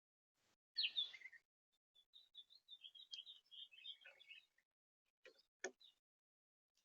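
A small songbird calling: one short harsh call about a second in, then a quick twittering song of rapid high notes lasting a couple of seconds, followed by two short clicks near the end.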